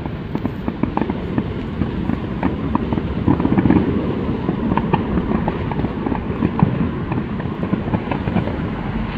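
Many fireworks going off at once: a continuous crackle of overlapping bangs and pops over a low rumble, with no gaps between them.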